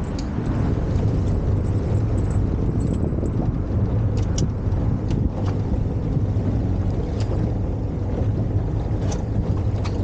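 Motorboat engine running steadily under way, a low drone with water and wind noise, and a few sharp ticks.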